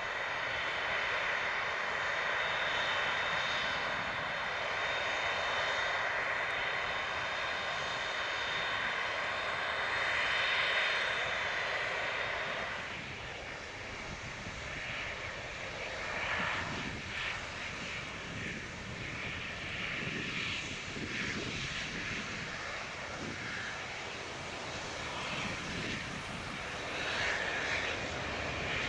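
Airbus A330-200's Rolls-Royce Trent 700 jet engines running at low power as the airliner taxis: a steady rushing noise with a layered whine. About 13 seconds in the sound drops and turns rougher and more uneven.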